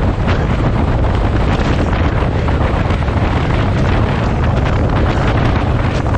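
Loud wind buffeting the microphone: a steady, rumbling roar with a fine crackle over it.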